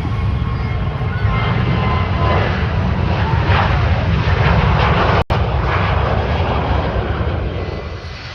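Jet airliner taking off: loud, steady engine noise with a deep rumble. It drops out for an instant about five seconds in, then begins to fade near the end.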